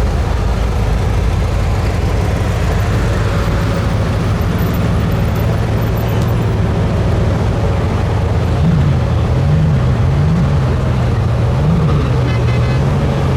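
A car engine idling with a deep, steady note, given four short throttle blips in the second half, over street traffic noise.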